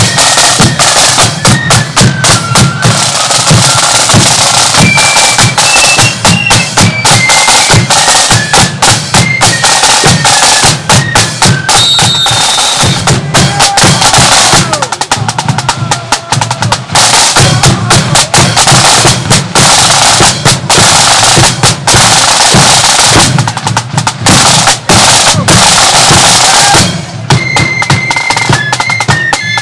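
Marching flute band playing: a melody on flutes over rapid snare drum rolls and a steady bass drum beat.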